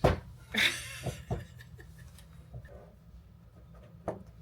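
A sharp knock, then a short breathy sound about half a second later, followed by a few light taps and clicks.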